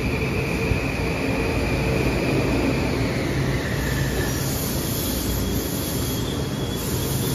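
An M8 electric multiple-unit commuter train rolls in and slows to a stop, with steady rumble from the cars. A high squeal slides down in pitch as it brakes and fades out about four seconds in.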